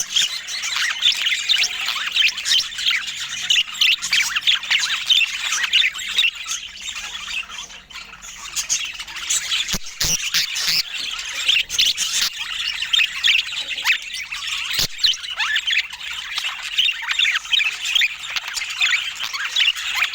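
Budgerigars chattering and warbling continuously in a dense stream of fast, high chirps and squawks, with a few sharp clicks around the middle.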